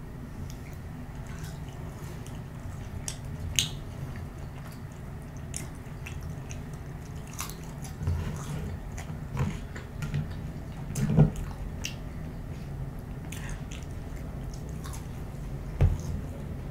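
Close-miked mouth sounds of chewing a french fry dipped in hot mustard sauce: soft biting, wet mouth clicks and smacks. A few louder knocks come through, one about a second before the end as a small sauce cup is set down on the table.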